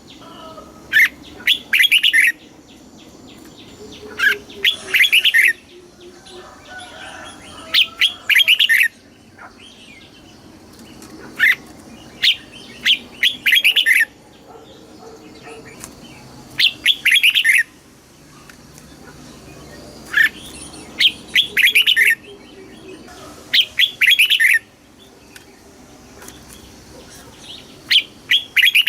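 Red-whiskered bulbul singing: short, loud phrases of quick, bubbling notes, repeated every few seconds, with fainter chirps between them.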